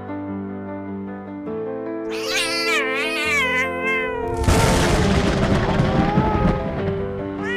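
A cat meowing over background music: one long, wavering meow about two seconds in, followed by a few seconds of rough, noisy sound.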